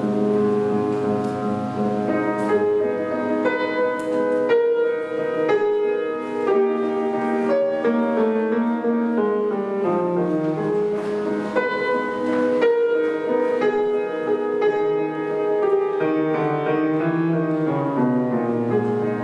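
Solo piano playing classical music: a slow melody of held notes over moving chords.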